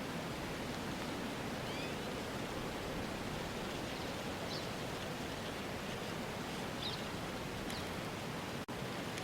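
Steady outdoor ambience of wind and rustling with a few faint, short high chirps scattered through it. It drops out for an instant near the end.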